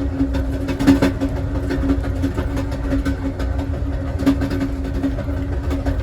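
Amtrak Southwest Chief passenger train rolling along: a steady low rumble of wheels on rail with a steady hum, and irregular clicks and knocks from the track, heard from the rear car.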